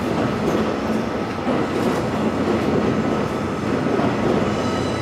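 The E001 series TRAIN SUITE Shiki-shima cruise train passing close by at low speed: steady running noise of wheels and traction equipment, with a faint steady whine above it.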